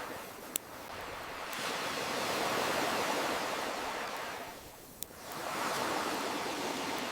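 Ocean waves rolling in and drawing back, one wave swelling in the middle and ebbing away about five seconds in before the next builds, with a campfire crackling: a sharp pop about half a second in and another at about five seconds.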